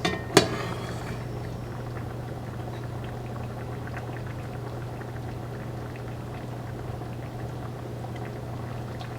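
Pot of black bean chicken chili simmering: a steady bubbling with faint pops over a low hum, after one sharp click about half a second in.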